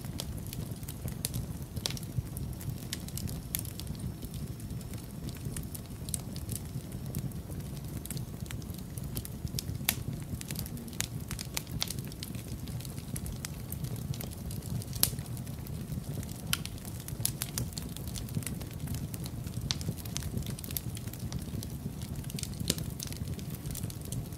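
Wood fire crackling in a fireplace, with frequent irregular pops and snaps of varying loudness over a steady low rumble.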